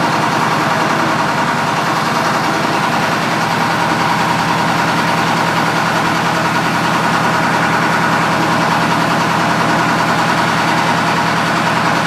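Mitsubishi 8DC10 V8 diesel engine running steadily at idle with an even, unchanging beat.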